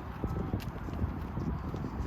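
Footsteps of a person walking on a hard path, soft repeated steps in a walking rhythm over a low rumble.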